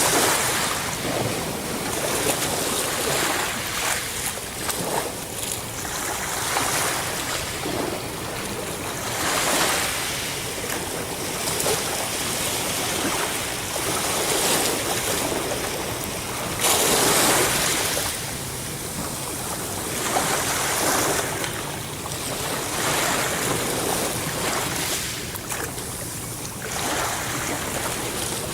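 Ocean waves breaking and washing in, surging every two to three seconds, with one stronger wave a little past halfway.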